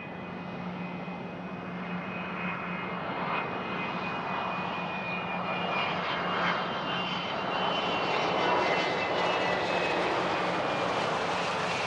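Business jet's turbofan engines, a rushing noise with a high whine, growing steadily louder as the jet draws nearer on the runway.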